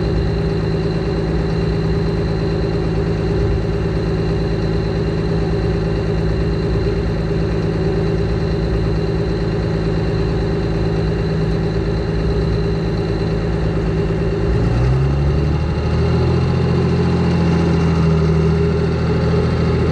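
Air-cooled Deutz diesel engine of a pulling tractor running steadily at idle, then picking up to a higher steady speed about 15 seconds in.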